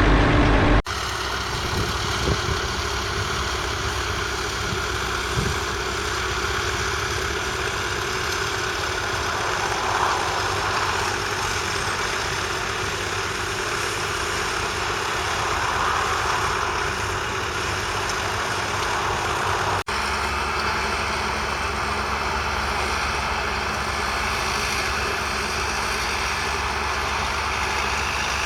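Massey Ferguson 1200's 5.8-litre six-cylinder diesel engine running steadily. The sound changes abruptly about a second in and again near two-thirds of the way through.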